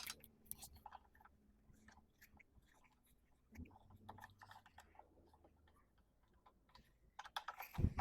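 Light clicks, taps and small rattles of metal and plastic parts and tools being handled, scattered and faint, with a louder cluster of knocks near the end.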